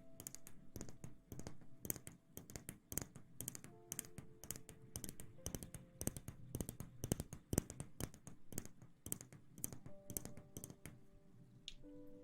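Close-miked ASMR rustling: rapid, irregular soft clicks and crackles, several a second, over faint steady tones.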